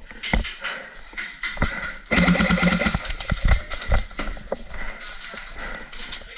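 Airsoft guns firing: scattered sharp shots and cracks, with a denser, louder burst of rapid fire about two seconds in that lasts about a second.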